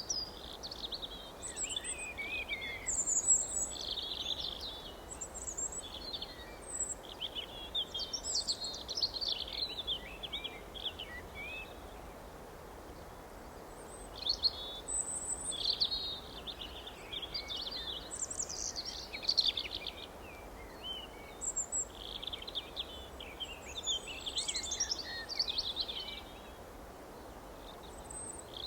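Several songbirds singing in quick, overlapping chirping and trilling phrases, with a brief lull about halfway through. A faint steady background hum of outdoor noise runs beneath them.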